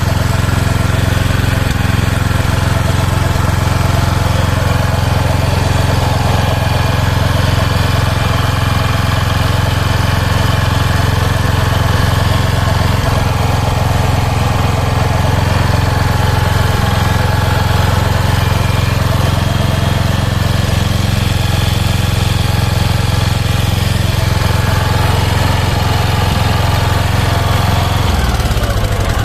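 Kawasaki FG201 5 hp four-stroke single-cylinder petrol engine running steadily at a constant speed, its speed dropping near the end.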